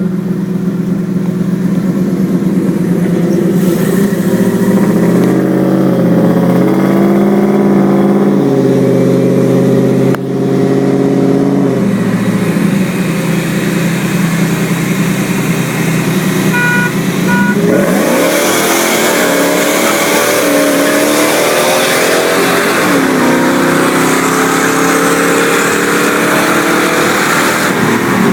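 V8 engines in a street race. They run steadily at first, with a few steps in pitch. About 18 s in, the pitch climbs hard under full acceleration with a rise in rushing noise, drops at a gear shift about 23 s in, and climbs again. A few short high beeps come just before the launch.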